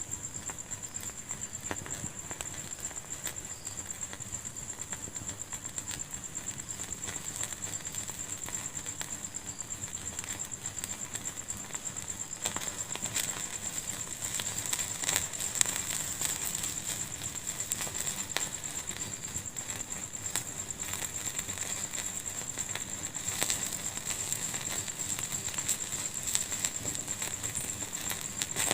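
Wood fire in a fireplace crackling, with frequent small pops that grow busier about halfway through and a few sharper, louder pops.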